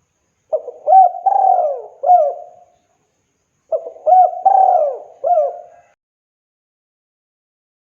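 Spotted dove (tekukur) cooing in two phrases of several notes each, a second or so apart, each note swooping up and down in pitch. It then falls silent for the last couple of seconds.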